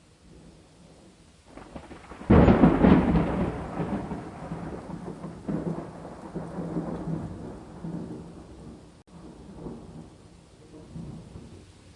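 Thunder over steady rain: a rumble builds, then a sharp loud crack comes a little over two seconds in and rolls away over the next several seconds. Weaker rumbles follow near the end.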